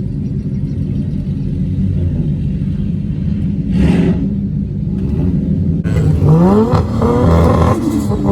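Ford Mustang engines rumbling at idle, with a short blip of throttle about four seconds in, then revved hard from about six seconds in, the pitch climbing quickly several times.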